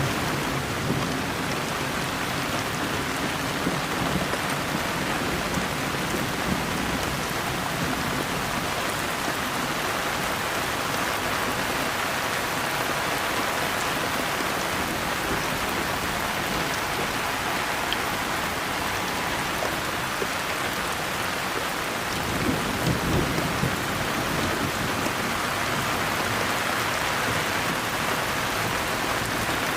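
Steady heavy rain falling, a constant even hiss. A low rumble of thunder swells briefly about three-quarters of the way through.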